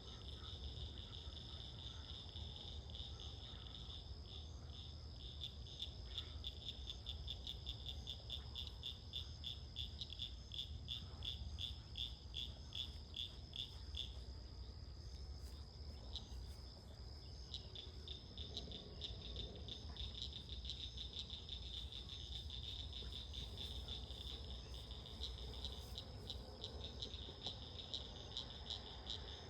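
Frogs calling in a night chorus: rapid, evenly pulsed high-pitched calls over a steady high trill, the pulsing dying down about halfway through and picking up again a few seconds later.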